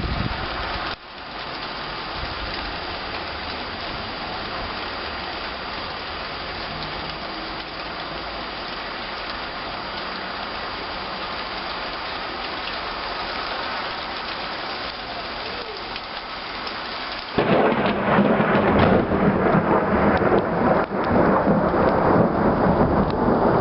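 Steady rain falling, then about three quarters of the way through a rumble of thunder breaks in suddenly, much louder than the rain, and goes on rumbling.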